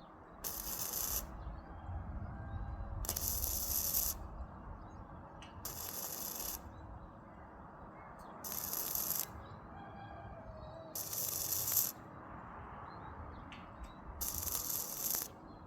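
Arc welding in short tack welds: six hissing bursts, each about a second long, two to three seconds apart.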